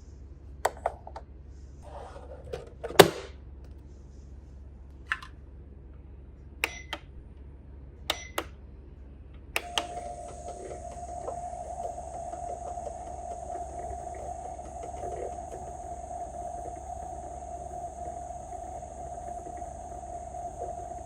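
Toy microwave being operated: a few sharp plastic clicks of its door and buttons, then about ten seconds in it starts a steady electronic running hum that lasts about eleven seconds.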